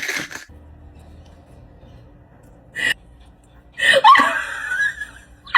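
A short gasp-like vocal sound about four seconds in, its pitch bending up and down, over a low steady hum.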